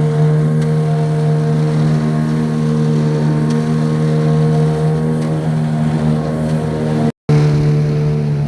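A motorboat's engine running steadily at cruising speed, holding an even pitch. The sound cuts out for a moment about seven seconds in.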